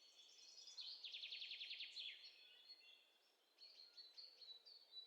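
Faint songbird song: a fast, high trill about a second in, followed by short, high chirping notes.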